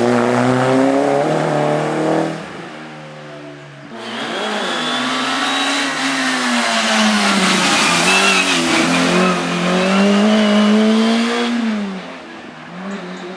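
Race car engine revving hard, its pitch climbing and dropping repeatedly with gear changes and lifts through chicanes. It is loud at first, drops away about two seconds in, comes back loud about four seconds in, and fades near the end.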